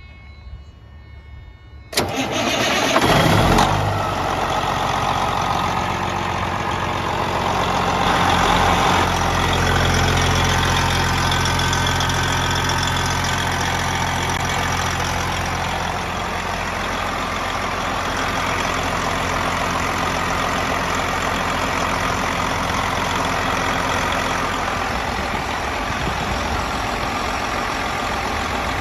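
A vehicle engine cranks and catches about two seconds in, then settles into a steady idle, with a brief rise in engine speed a few seconds later.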